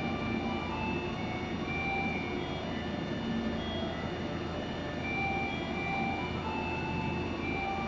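Tobu Isesaki Line train running at the station platform, a steady rumble with short scattered tones over it.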